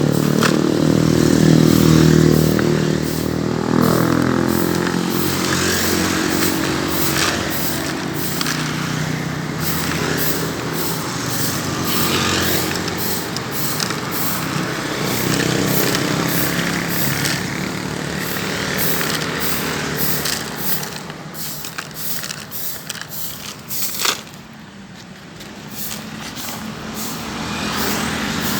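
Road traffic passing, with one heavy engine close by in the first few seconds. Under it runs a long series of short, evenly repeated scraping strokes from brooms sweeping washed-in sand off the road.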